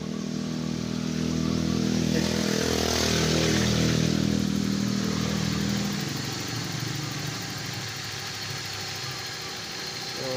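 Toyota Corolla engine running at idle with the headlights and air conditioning switched on, loading the alternator for a charging-voltage test. The engine note swells over the first few seconds and then settles back to a steadier, quieter idle.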